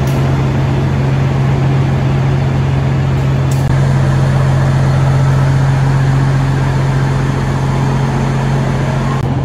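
Train running: a steady low hum over an even rumbling noise, a little louder after an edit join about a third of the way in.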